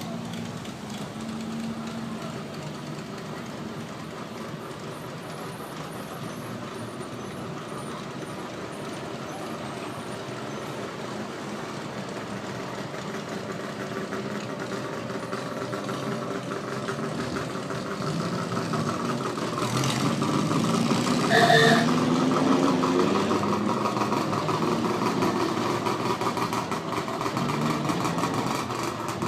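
Engines of old cars running, growing louder about two-thirds of the way through as a car comes close. At the loudest point there is a brief higher tone, then the engines stay fairly loud.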